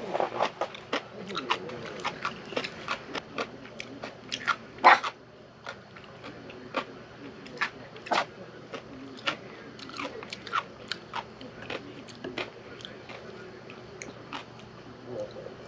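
Crunchy food being bitten and chewed: a run of sharp, irregular crunches, the loudest about five seconds in.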